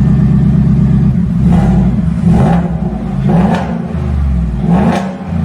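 Ford F-150 engine running loud through an open electric exhaust cutout fitted just ahead of the muffler, with the stock resonator removed. It idles steadily for about a second, then is revved in about four short blips.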